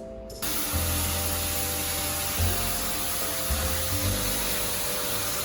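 Water spraying steadily from a shower head, starting suddenly about half a second in, over background music with low sustained notes.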